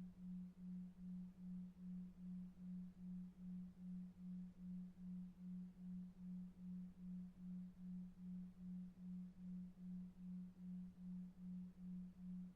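A low pure tone pulsing evenly about two and a half times a second, over a faint low rumble of brown noise: a 2.5 Hz 'delta wave' pulsed-tone sleep track.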